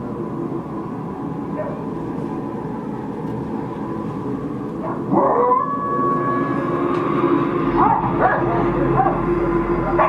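Show soundtrack over the park loudspeakers: a steady musical drone with dog-like howls and barks laid over it. A long gliding howl comes about halfway through, and shorter yips follow near the end.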